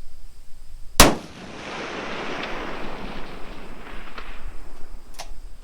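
A single shot from a Creedmoor-chambered precision rifle about a second in, followed by a long trailing echo that fades over about three seconds. A few light clicks come near the end.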